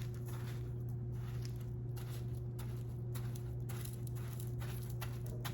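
Steady low electrical hum with a faint higher tone over it, and a few faint soft taps.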